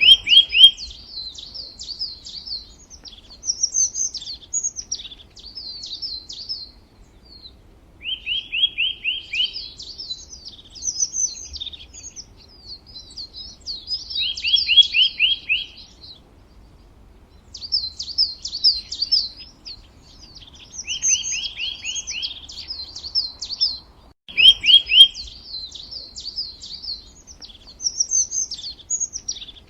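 A songbird singing in repeated phrases a few seconds apart. Each phrase opens with a fast trill of quick notes, followed by a jumble of higher, quicker chirps.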